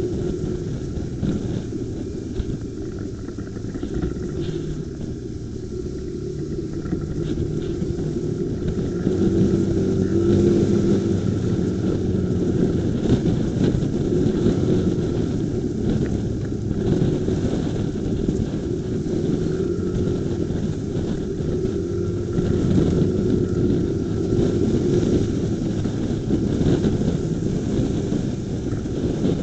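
Riding sound picked up by a motorcycle dashcam's microphone: a steady low rumble of wind and engine, with the wind noise held down by the camera's suppression. The engine's hum gets louder about nine seconds in and stays that way.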